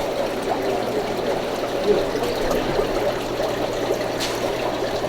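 Steady trickling and bubbling water from aquarium tank filters, over a low, even hum.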